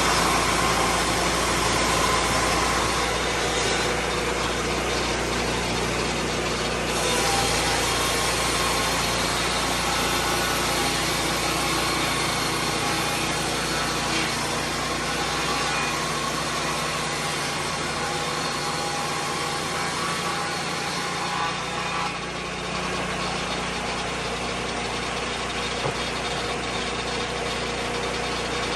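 Lucas Mill 10-30 swingblade sawmill's engine running steadily.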